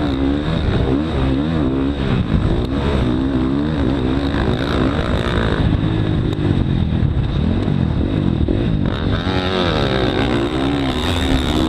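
Motocross dirt bike engine revving up and down over and over as the throttle is opened and closed.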